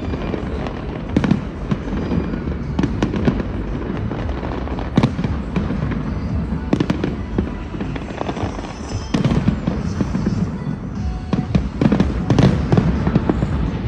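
Large aerial fireworks display going off: a continuous run of bangs and crackling bursts, getting denser and louder near the end.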